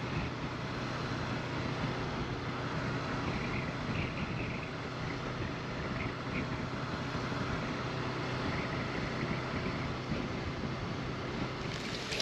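Motorcycle under way: the Honda CB500X's parallel-twin engine running steadily under wind rushing over the microphone.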